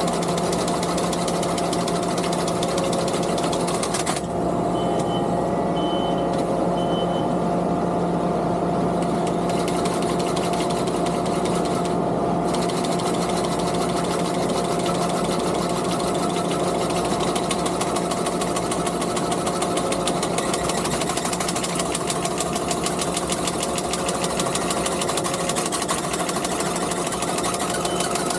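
Skid steer engine running steadily under load, with the fast clatter of a sickle bar mower's reciprocating knife. The rattle fades for several seconds about four seconds in, then returns.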